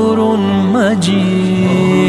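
A solo voice singing the end of the Arabic name "Sabur" in a drawn-out, ornamented line over sustained backing music. About a second in, the voice gives way to a steady held tone.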